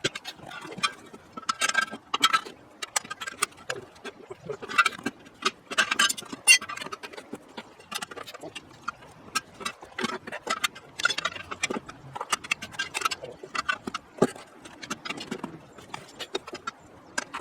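Irregular clinks and knocks of hand tools on metal, a few strikes ringing briefly.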